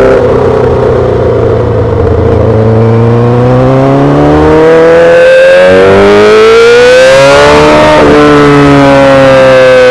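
2008 Yamaha R6's inline-four engine through a full SC-Project exhaust, pulling through a gear with the pitch rising steadily from about two seconds in. Near the end the note drops sharply at an upshift, then eases gently down as the throttle rolls off.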